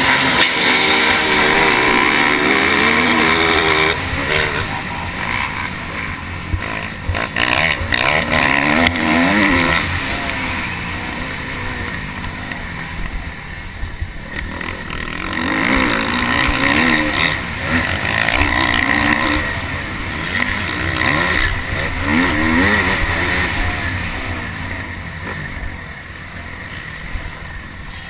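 Motocross bike engine racing, revving up and backing off again and again, its pitch repeatedly climbing and dropping over a steady rushing noise. It is loudest in the first few seconds.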